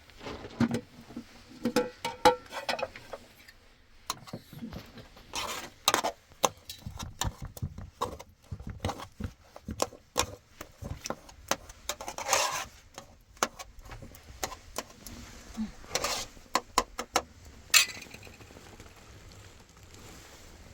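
Irregular clicks, clinks and knocks of hard objects being handled, with a few louder knocks spread through.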